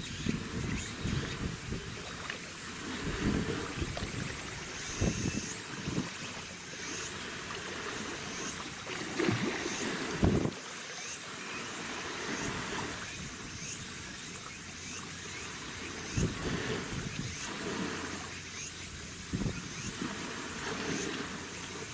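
Wind gusting against the microphone in irregular low rumbles, the loudest about ten seconds in, over a steady wash of sea water and the faint running of passing ships.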